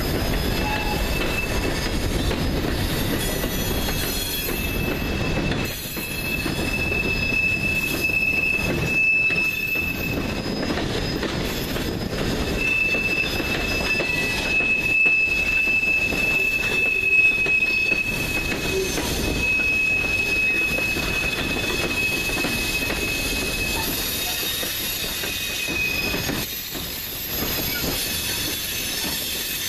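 Freight cars of a CSX train rolling past with a steady rumble and rattle. A high, steady metallic squeal comes in about seven seconds in, drops out briefly, then returns and stops near the end.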